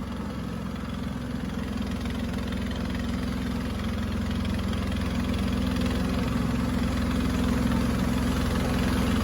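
Boat engine running steadily, slowly growing louder.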